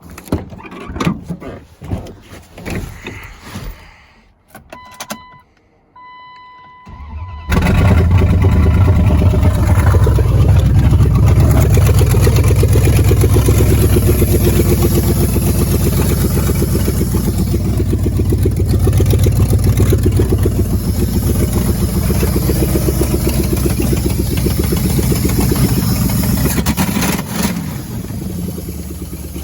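Chrysler 5.2 L (318) Magnum V8 on open exhaust manifolds, with no exhaust pipes, starting up suddenly after a short electronic chime and then running loud and steady, a little quieter near the end. A few knocks and clunks come before the chime.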